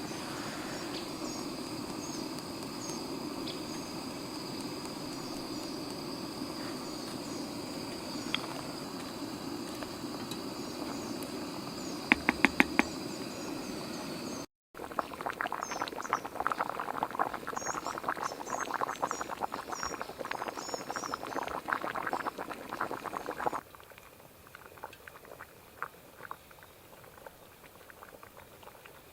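A pot of pasta in tomato sauce bubbling as it cooks: a dense crackle of bursting bubbles that stops abruptly, leaving a faint bubbling. Before it there is a steady low rushing with a quick run of sharp clicks, and birds chirp high above.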